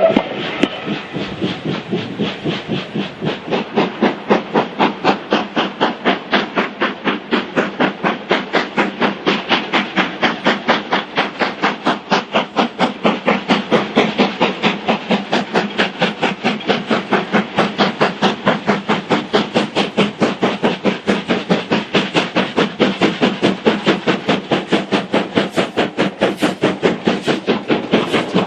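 LMS Black Five steam locomotive 45212 working along, its exhaust beating in an even rhythm of about three and a half beats a second, firming up a few seconds in, with a hiss of steam underneath.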